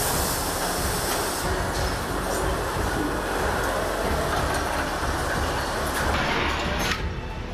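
Steady, dense machinery noise with a clattering, rolling character, thinning out about seven seconds in.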